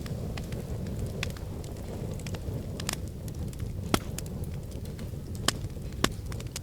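Wood fire in a fireplace crackling and popping over a low steady rumble, with sharp snaps about four seconds in and twice more near the end.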